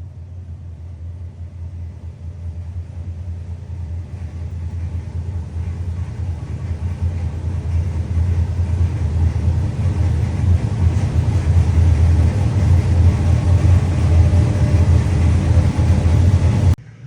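GM LS V8 engine running under load on an engine dyno during a pull: a deep, steady rumble that gets louder over about sixteen seconds, then cuts off suddenly near the end.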